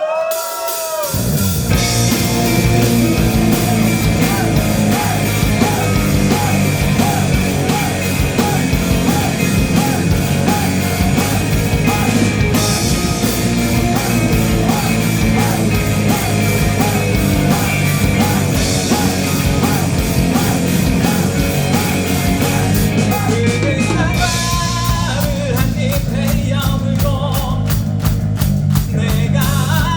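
Live rock band of drum kit, bass, two electric guitars and keyboard starting a song about a second in and playing loud and steady, with a repeating guitar figure; the cymbals drop out briefly near the end before the full band comes back.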